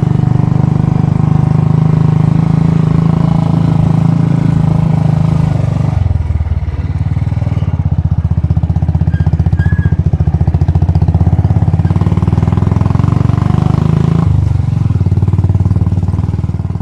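Royal Enfield Bullet's single-cylinder engine running, steady at first; about six seconds in the engine note drops and the exhaust settles into a slow, even thumping, shifting again near the end.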